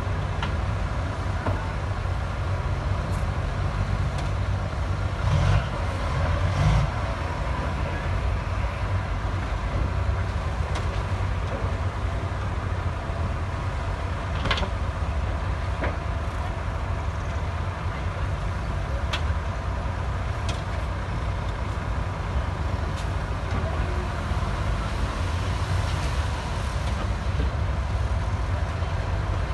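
Diesel engine of heavy earthmoving equipment running steadily, with a brief louder swell a few seconds in and a few faint sharp knocks later.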